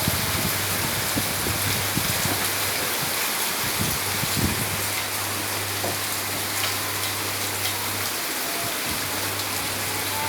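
Heavy rain falling steadily, with a few low thuds in the first half, over a steady low hum.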